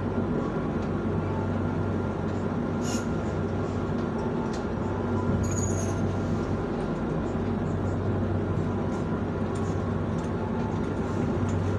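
Passenger train coach heard from inside while the train moves slowly past a station: a steady low hum and rumble, with a few faint clicks and a brief high squeak about six seconds in.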